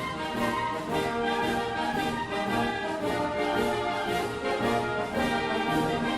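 Orchestral music led by brass, with full held chords that change every half second or so.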